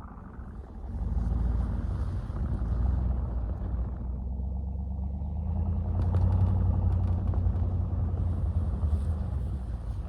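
Pickup truck engine running steadily, growing louder about a second in and again about six seconds in.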